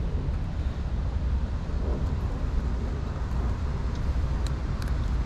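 Steady low rumble of city traffic, with a few faint clicks near the end.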